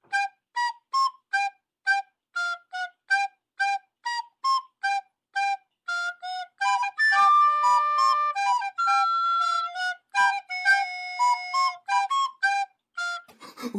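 A flute-like solo melody of short, detached notes, about two to three a second, with a few longer held notes in the middle, played as a comedic sound-effect tune.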